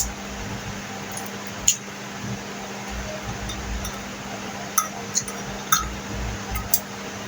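About six short, sharp clinks at irregular intervals over a steady background hiss and low hum.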